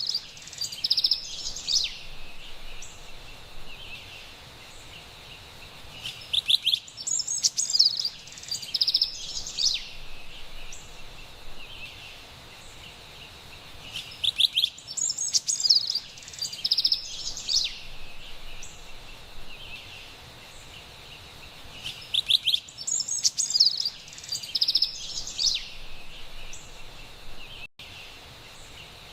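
Carolina wren singing: four loud bouts of rapidly repeated high phrases, about eight seconds apart, over a faint, steady high-pitched background.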